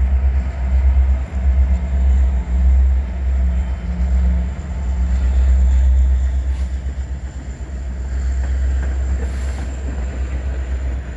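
Freight train hauled by a pair of EMD SD70M-2 diesel locomotives passing close by, a heavy, steady low rumble. About six seconds in it eases a little, as the locomotives go by and the cars roll on.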